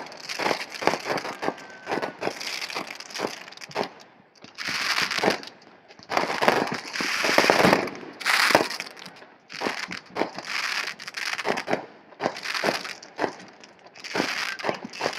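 Fireworks going off: a run of sharp pops and crackles, with denser crackling bursts midway that are the loudest part.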